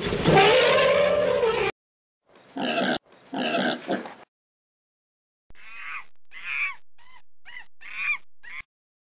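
Three separate recorded animal calls with silences between them. First the end of a loud, rough call, then two short grunts, then a run of six short calls that each fall in pitch.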